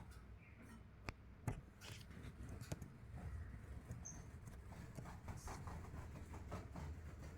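Lovebirds moving about: scattered light taps and scratches, with one short high chirp about four seconds in.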